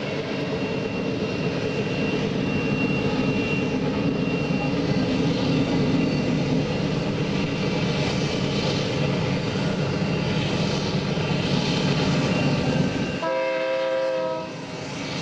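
Freight train running by with a steady rumble. About 13 seconds in, the sound changes abruptly to a train horn sounding a steady chord of several notes.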